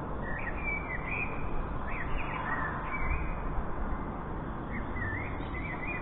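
Birds calling in short, quick high notes, in three bunches spread across the few seconds, over a steady low background rumble.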